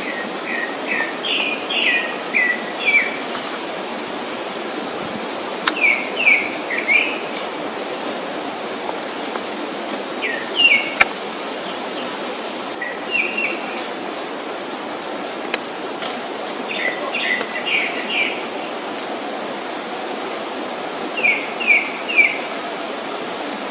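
A songbird singing short phrases of three to five quick chirping notes, repeated every few seconds, over a steady rushing background noise.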